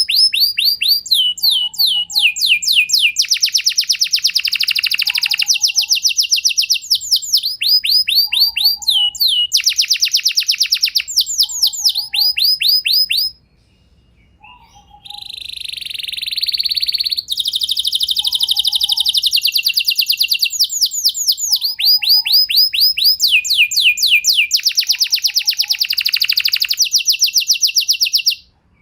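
Domestic canary singing: long rolling trills, each a rapid string of the same falling note repeated many times, changing from one trill to the next, with a short break about halfway through.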